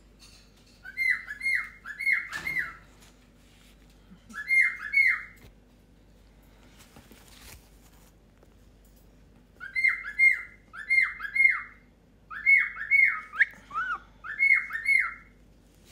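Pet bird calling in short, sharp notes, repeated in quick groups of two to four with pauses between.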